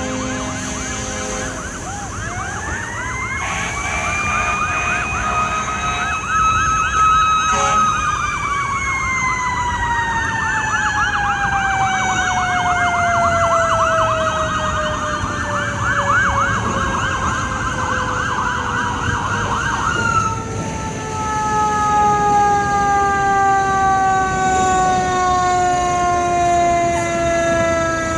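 Fire engine sirens: a mechanical siren winds up, holds its pitch, then slowly winds down, while an electronic siren sweeps rapidly up and down over it. The electronic siren cuts off abruptly about twenty seconds in, leaving the mechanical one coasting down.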